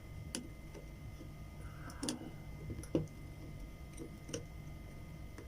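A few scattered light clicks of a small screwdriver working the screw of a Shimano Sahara spinning reel's handle knob.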